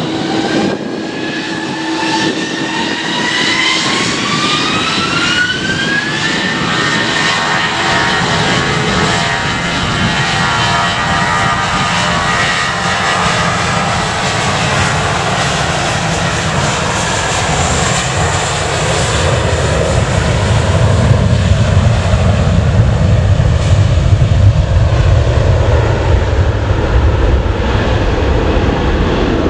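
Jet airliner's engines spooling up: a rising whine over the first six seconds that levels off into a steady high-thrust roar. A deep rumble builds and grows louder in the last ten seconds.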